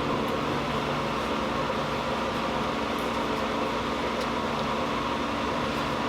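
Blacksmith's forge running with a steady roar and a low hum while the workpiece heats.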